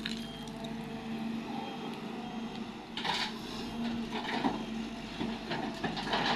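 A machine engine running with a steady hum, with short rushing noises rising over it now and then.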